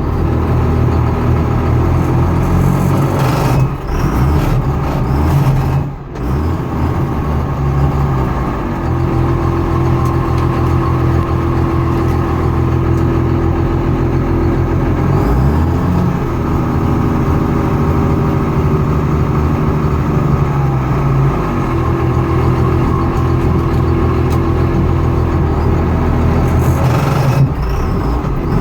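A motor vehicle's engine running steadily with a grinding noise from the machine, the fault the recording is made to show.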